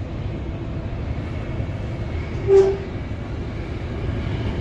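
Electric suburban train running, a steady low rumble heard from inside the carriage, with one short, sharp pitched note about halfway through.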